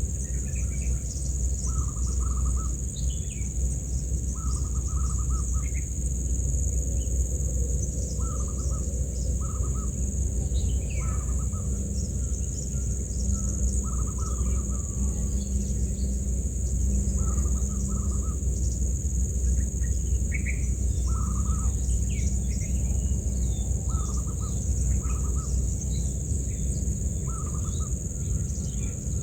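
Birds calling outdoors: a short call repeats every couple of seconds, about a dozen times, among scattered quick chirps. Under them run a steady high-pitched insect drone and a low rumble.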